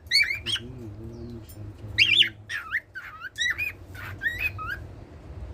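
Cockatiel singing: a run of quick whistled chirps and warbling notes with squawky edges, in short phrases that stop shortly before the end.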